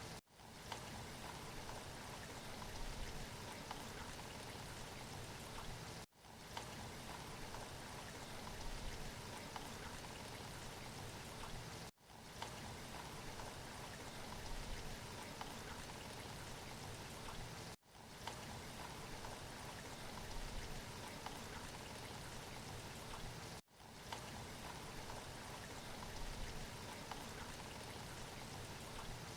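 Steady rainfall noise from a looped recording, cutting out for a split second about every six seconds where the loop restarts.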